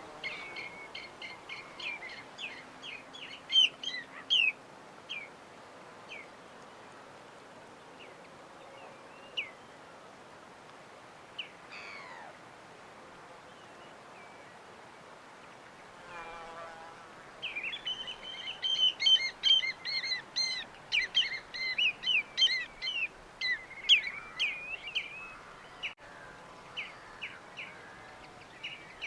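Birds chirping in quick runs of short, high chirps. There is a burst in the first few seconds, a few scattered calls in the middle, then a dense stretch of chirping through much of the second half, over a faint steady hiss.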